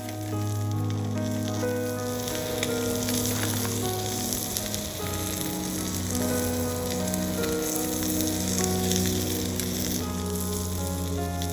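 Steady sizzling, as of food frying, under background music of held notes.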